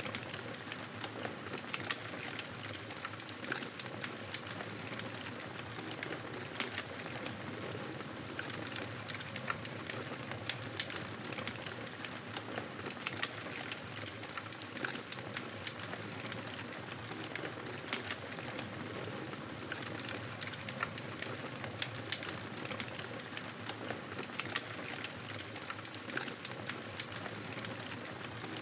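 Fire crackling in a fireplace: a steady hiss with frequent sharp pops and snaps at irregular intervals.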